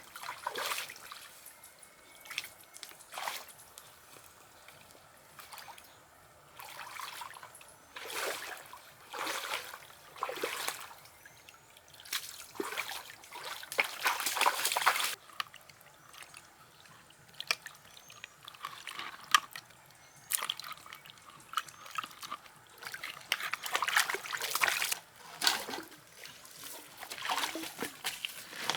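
Water trickling and splashing in irregular bursts with short quiet gaps, as when water is poured or scooped by hand.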